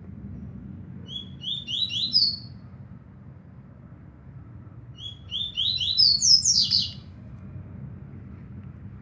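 Papa-capim seedeater singing two quick song phrases of the 'trovão máquina' type, about four seconds apart. Each phrase is a rapid run of short sliding notes that climbs higher at the end. A steady low rumble runs underneath.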